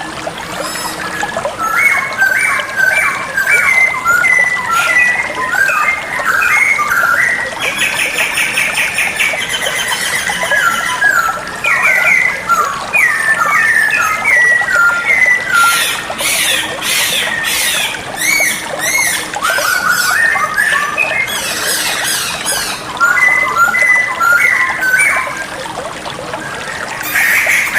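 White-crested laughingthrush singing hard: a run of short, loud whistled notes that rise and fall, broken by a fast rattling trill about a third of the way in and harsh, scratchy chatter later on.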